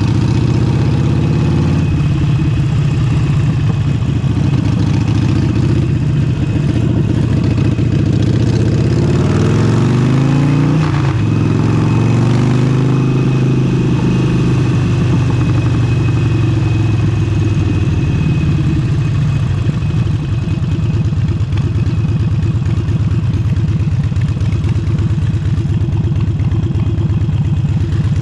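Harley-Davidson Forty-Eight's air-cooled 1200 cc V-twin with a Vance & Hines exhaust, running on the road. The pitch climbs as it revs up about a third of the way in, drops sharply near the middle at a gear change, then holds steady.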